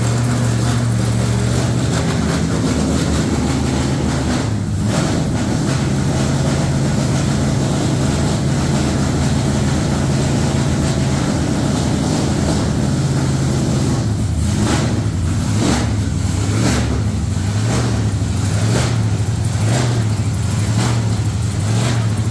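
LS V8 engine in a truck running loud and steady on its first fire-up. In the second half its note swells and dips about once a second.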